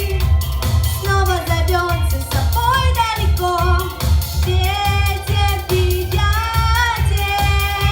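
A girl singing a pop song, holding and bending her notes over backing music with a steady bass beat.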